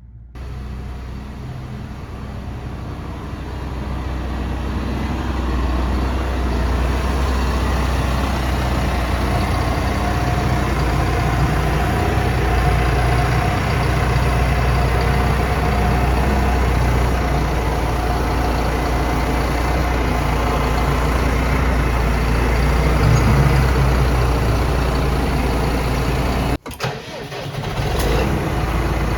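Tractor engine running steadily, growing louder over the first few seconds, with a brief break near the end.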